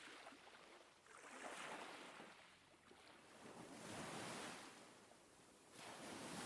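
Faint ocean surf: waves wash in and draw back, swelling and fading three times.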